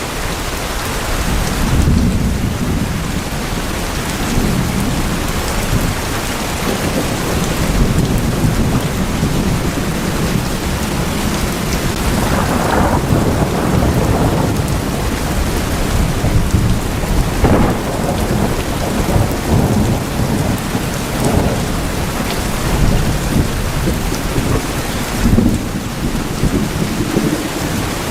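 Steady heavy rain drumming on a tin roof, with low thunder rumbling through it and a few louder patters of drops.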